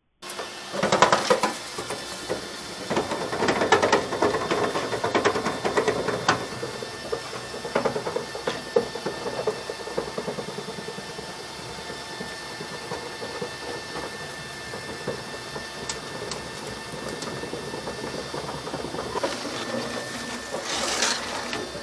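A machine running steadily, with irregular rattling and knocking that is busiest in the first few seconds and eases off after that.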